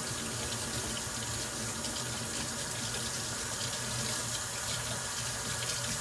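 Kitchen tap running into a sink: a steady rush of water.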